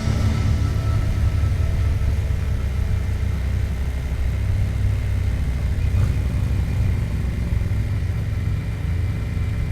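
2024 Yamaha MT-07 parallel-twin engine running at a steady cruise under a heavy, steady wind rumble on the microphone.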